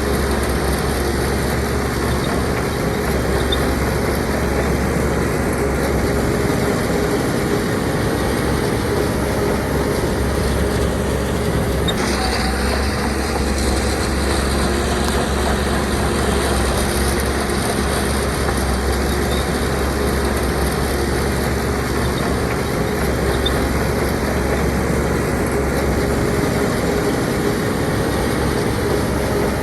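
Heavy diesel earthmoving machinery running steadily at work, with an abrupt change in the sound about twelve seconds in.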